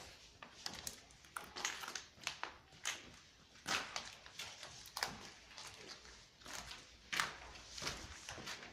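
Footsteps over debris and scrap in an abandoned building: a run of short, irregular clicks and scrapes, roughly one or two a second.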